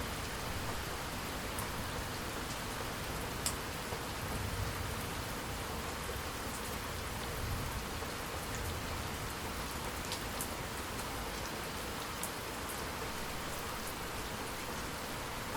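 Steady rain falling on surfaces, an even hiss with a few sharp single drop hits scattered through it.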